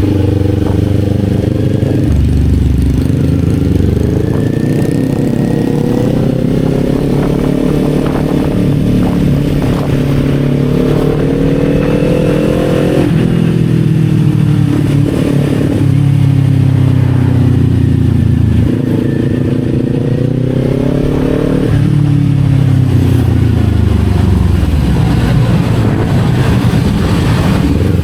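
Kawasaki Z400's parallel-twin engine under way, its revs climbing steadily and then dropping sharply at upshifts, once about two seconds in, once about halfway and once about three-quarters through.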